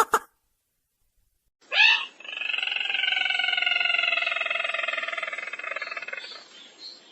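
Recorded call of the sintar merah bird: the last notes of a fast pulsed series right at the start, then after a short pause one long trilling call, about five seconds long, that slides gradually down in pitch and fades near the end.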